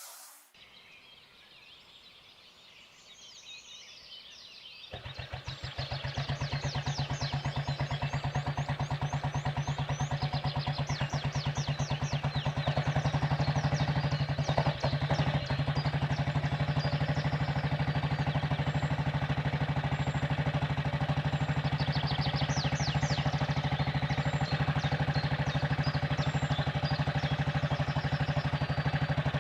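Restored antique motorcycle engine starting about five seconds in, after a quiet stretch, then running steadily with an even rapid firing beat.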